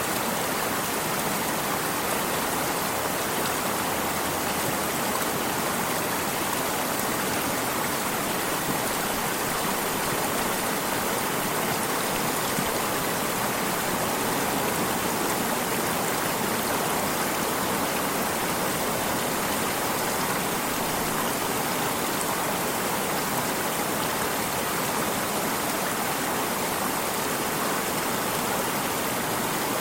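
Flowing stream water: a steady, unbroken rush and splash.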